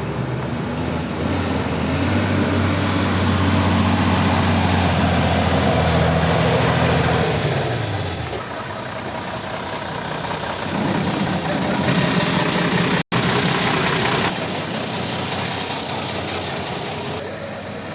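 2007 Tata LPT 1613 cargo truck's diesel engine running at raised revs, which drop back about seven seconds in. It keeps running at lower revs with a second swell around eleven to fourteen seconds in.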